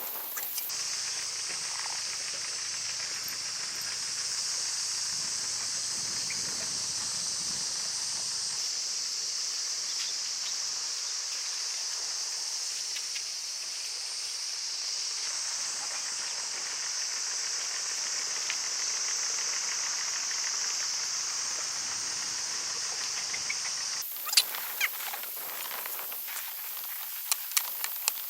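A steady, high-pitched insect chorus that cuts off suddenly about four seconds before the end. Sharp clicks follow, one at the cut and a quick run of them near the end.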